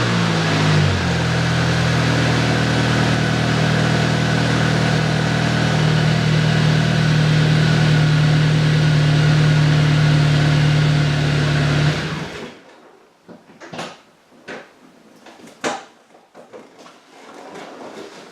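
Saab 9-5 running through a custom 2.5-inch twin-pipe exhaust with four tips: the revs fall back from a blip to a steady idle, and the engine is switched off about twelve seconds in. A few light clicks and knocks follow.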